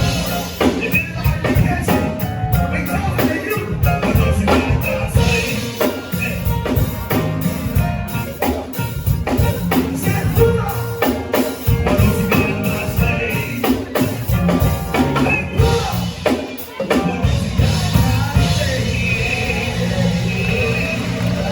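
Live band music with drum kit keeping a steady beat, an instrumental stretch of a gospel song with a singer's voice coming in near the end.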